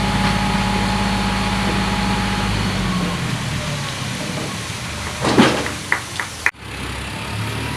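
Tractor engine running steadily, easing to a lower, quieter note about three seconds in. A sudden loud noise comes about five seconds in, followed by a few sharp clicks and an abrupt cut in the sound.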